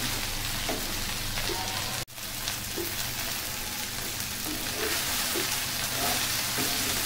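Chopped okra sizzling steadily as it fries in a pan, with a sudden brief dropout about two seconds in.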